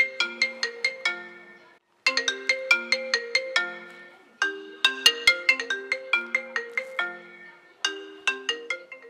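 iPhone ringtone ringing for an incoming call: a short melody of bright mallet-like notes repeating every couple of seconds. It gets quieter over the last few repeats, the ringer turning itself down automatically, which the owner puts down to the Face ID Attention Aware Features.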